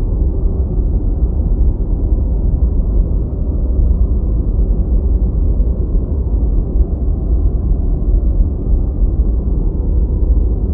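Deep white noise: a steady, unchanging low rush, heaviest in the bass, with little treble.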